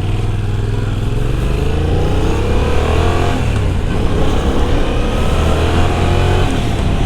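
Yamaha MT-07 motorcycle engine running under way, rising in pitch as it accelerates and dropping about three seconds in.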